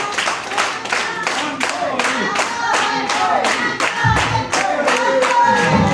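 A small audience clapping, many sharp hand claps, with several voices over it.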